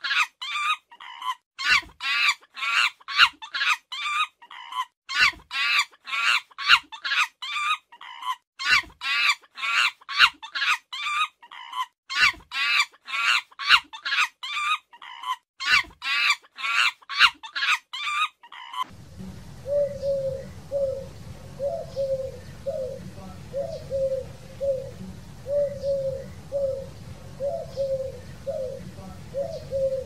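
A rapid series of high-pitched animal calls, several notes a second in runs separated by short gaps, stops abruptly about 19 seconds in. Then doves coo in a steady repeating series over a low steady rumble.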